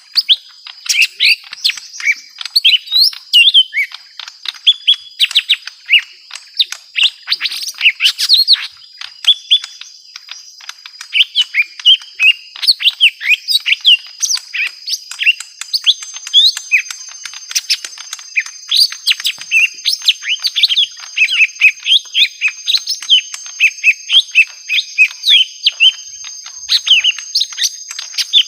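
Young lesser green leafbirds (cucak ijo mini) calling in a rapid, continuous chatter of short sharp chirps: the agitated calls of birds fighting.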